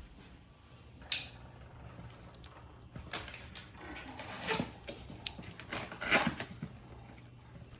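Cardboard ceiling-fan box being handled and turned over: a scatter of short knocks, scrapes and rustles, the sharpest about a second in.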